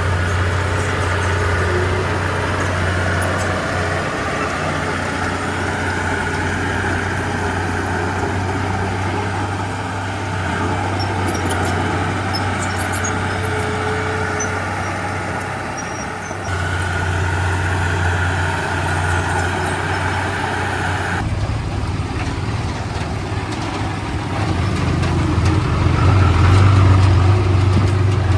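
Diesel engine of heavy earthmoving machinery running steadily, its level rising and falling. The sound changes abruptly about 16 and 21 seconds in, and grows loudest near the end.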